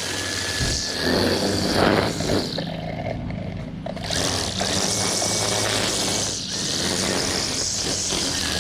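An engine running steadily under a noisy rush, with a brief dip in the rush about three seconds in.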